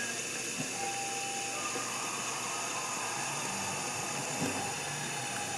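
Running tap water pouring in a steady, even hiss.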